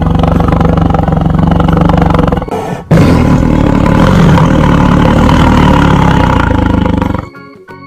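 Tiger roaring: two long, low rumbling roars with a short break between them. Near the end it cuts off and light music with separate notes plays.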